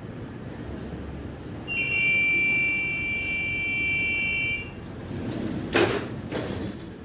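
A steady high electronic warning tone sounds for about three seconds and cuts off sharply, followed about a second later by a single sharp clunk, over a low rumble of a standing tram.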